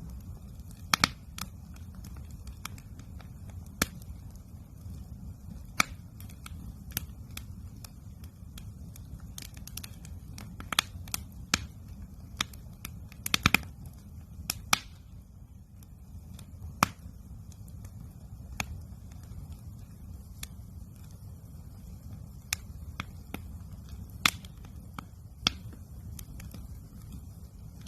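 Wood campfire crackling: irregular sharp pops and snaps, several close together about halfway through, over a steady low rumble.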